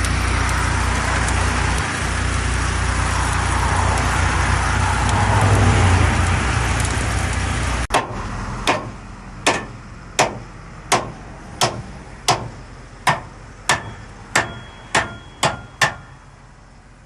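Loud steady road-traffic noise that cuts off abruptly about halfway through. Then about a dozen sharp hammer strikes on metal, a little under a second apart and coming quicker toward the end, some with a brief ring.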